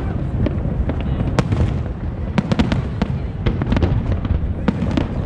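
Fireworks going off in quick succession: many sharp bangs and crackles, several a second, over a continuous low rumble.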